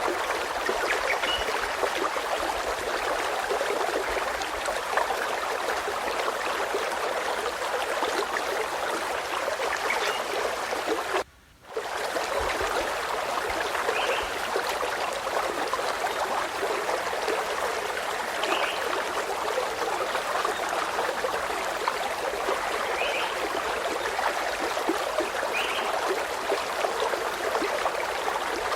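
Running stream burbling steadily, with brief high bird chirps every few seconds. The sound cuts out for about half a second a third of the way through.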